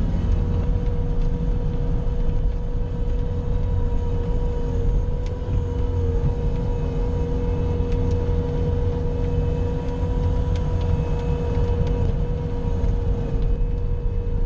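Bobcat skid-steer loader's engine running steadily under a heavy low rumble, with a constant high whine over it.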